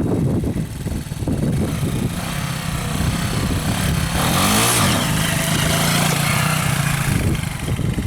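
Motorcycle engine running, its pitch dipping and climbing again about halfway through, then holding steady.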